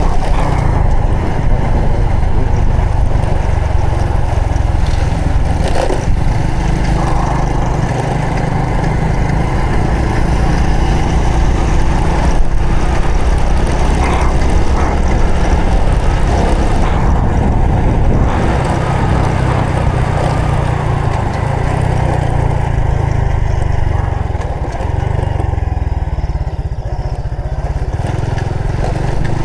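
Honda Supra X 125 FI's single-cylinder four-stroke engine running under way on a ride, its steady low exhaust note mixed with road and wind noise.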